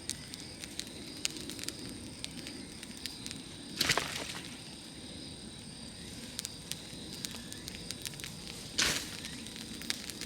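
Large wood bonfire burning and crackling, with many small pops and two louder bursts of crackle about four and nine seconds in.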